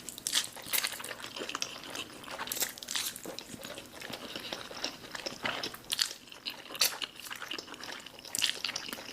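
Close-miked eating sounds of black bean noodles: wet chewing and slurping, heard as a steady run of irregular smacks and clicks.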